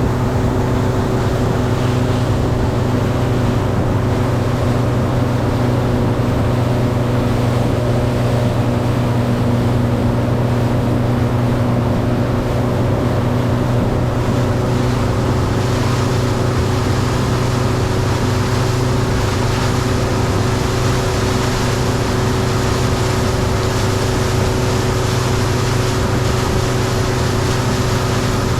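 Outboard motor running steadily at cruising speed, with the rush of wind and water over the hull.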